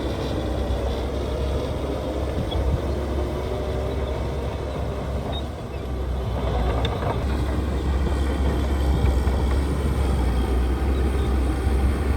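Heavy earthmoving machinery's diesel engine running steadily with a low rumble; it eases briefly a little before the middle, then runs a bit harder.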